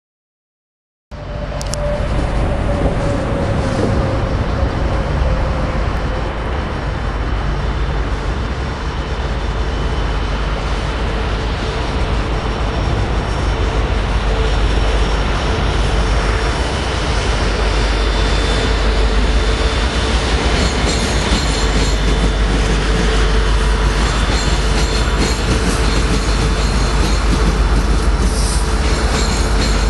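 Union Pacific manifest freight train's diesel locomotives approaching and passing close by, a heavy steady engine rumble that grows a little louder as the lead units go by. The sound cuts in suddenly about a second in.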